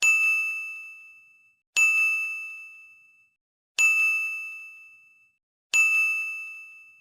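A bell-like ding sounding four times, about two seconds apart, each strike ringing out and fading over a second and a half.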